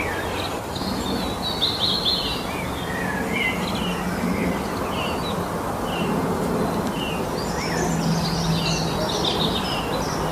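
Several songbirds singing and calling: short chirps and trills, busiest twice in quick flurries, over a steady background hiss.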